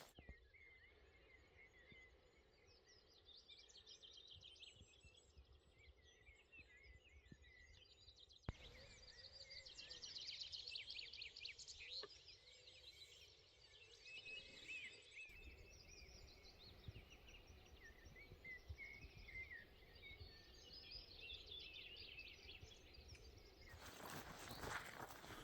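Faint birdsong, several birds chirping and singing over a quiet outdoor hush. The background level shifts abruptly about eight seconds in and again about fifteen seconds in.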